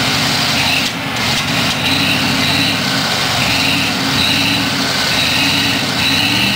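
Vehicle engine idling steadily, with a brief dip in level about a second in.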